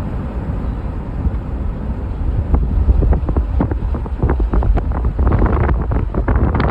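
Wind buffeting the microphone over a steady low rumble, with crackling gusts from about halfway through.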